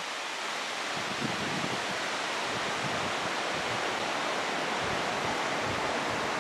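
Steady wind, an even rushing hiss that grows slightly louder.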